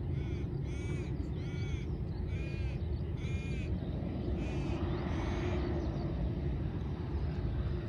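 A bird giving a run of about six repeated calls, roughly one a second, that stop about five seconds in, over a steady low rumble.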